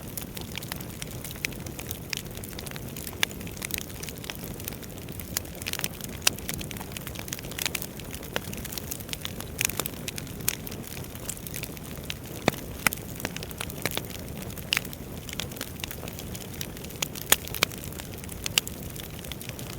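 Wood fire burning in a fireplace: a steady low rumble of flames with frequent irregular crackles and sharp pops, a few louder pops scattered through.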